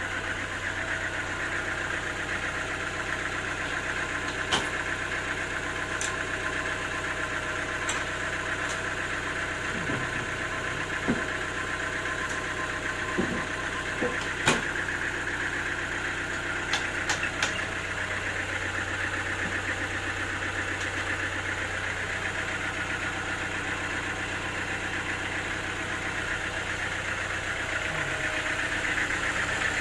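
Sawmill machinery running steadily at an even pitch, with a few short sharp knocks scattered through it.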